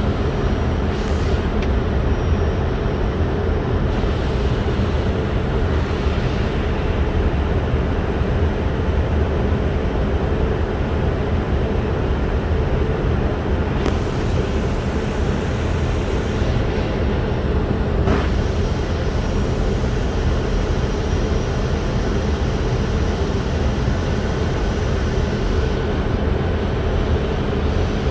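Steady rush of airflow and engine hum inside an Airbus A320 cockpit on approach.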